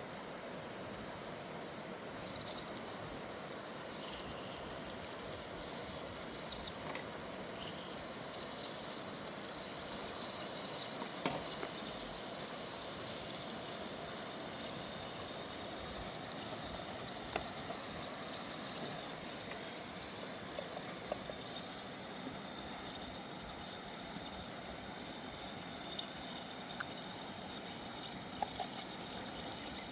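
River water rushing steadily, with a few light clicks or knocks scattered through it.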